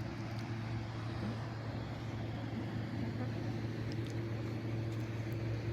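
Steady low hum of motor traffic, an even drone that holds level throughout.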